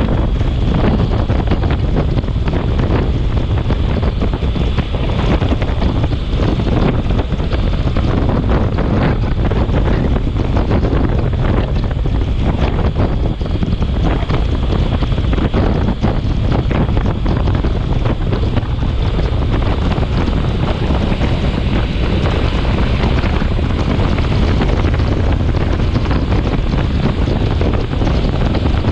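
Storm wind buffeting the microphone: a loud, steady rush of noise with many small crackles.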